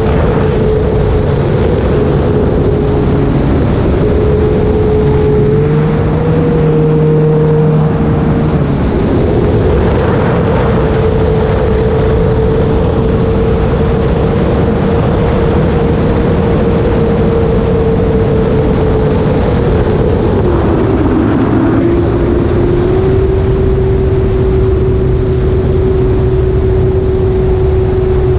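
Electric motor and propeller of an E-flite Air Tractor RC plane running in flight: a steady drone whose pitch shifts with the throttle, rising briefly and then dipping near the end before settling lower. Heavy wind rush runs under it.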